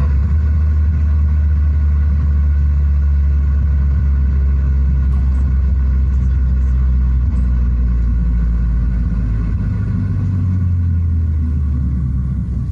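Simulated muffler rumble from a Sound Racer engine-sound device, played through the car's interior speakers. It is a steady low drone that shifts a little in pitch about eight seconds in and eases off near the end.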